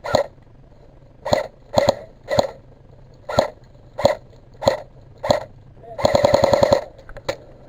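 Airsoft gun firing single shots, about one a second at irregular spacing, then a short full-auto burst of about a dozen rounds lasting just under a second, and one more shot near the end.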